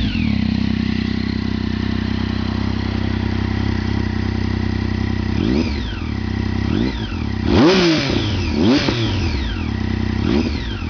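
A 2009 Triumph Street Triple R's 675 cc inline three-cylinder engine, breathing through an Arrow exhaust with the dB killer removed, idles steadily for about five seconds. It then takes about five short throttle blips, each rising in pitch and falling straight back to idle, the biggest near the middle.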